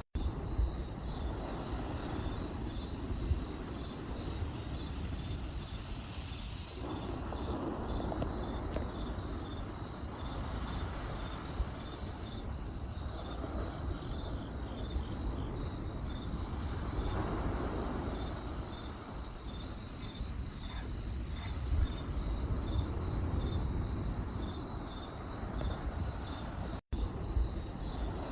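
Campfire burning with a low rumble and scattered sharp crackling pops, under crickets chirping steadily in a fast, even pulse. The sound cuts out for an instant near the end.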